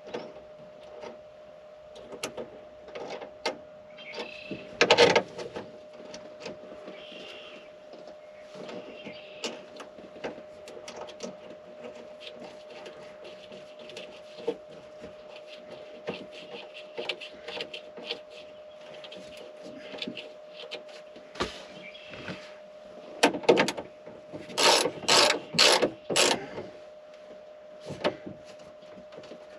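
Ratchet wrench clicking in short runs, with scattered knocks of hand tools, as battery cable connections are tightened. A louder run of four clicking bursts comes near the end, over a faint steady hum.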